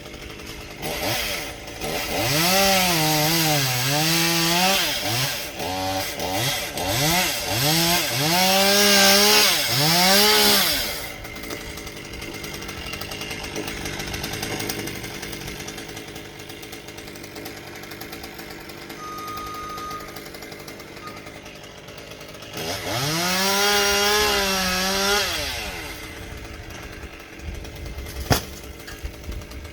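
Two-stroke chainsaw revving in a series of throttle bursts for about ten seconds, its pitch dipping and recovering, then running low and steady. It revs hard again for a few seconds later on, and a single sharp crack comes near the end.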